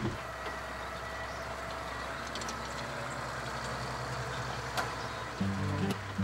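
Tractor running with a rotary grass rake whose rakes are spinning, a steady mechanical noise with a low hum. Music comes in about five seconds in.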